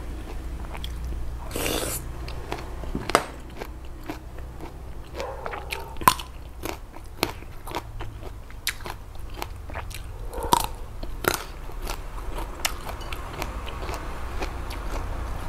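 A person chewing and biting crunchy raw vegetables close to a clip-on microphone: a run of sharp crunches, the loudest about three, six and ten and a half seconds in, over a faint steady low hum.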